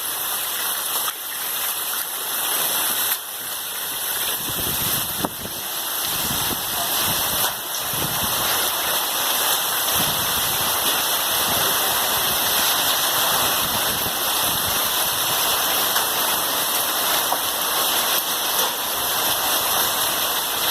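Very heavy rain pouring down steadily, with a few sharp knocks in the first several seconds.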